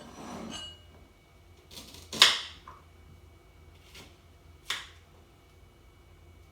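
Kitchen utensils and dishes knocking and clattering: three sharp knocks a couple of seconds apart, the middle one loudest, with a brief rustle at the start.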